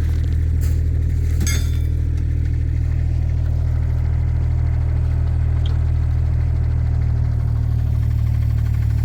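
Kubota mini excavator's diesel engine running steadily, with two sharp clanks, the second one ringing, between about one and two seconds in.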